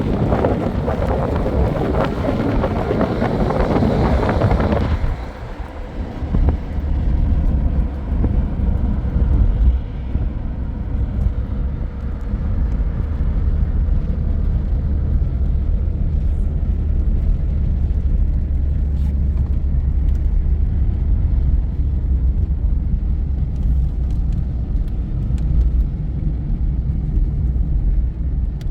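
A vehicle driving, with a steady low road and engine rumble. For about the first five seconds a louder rushing noise sits over it.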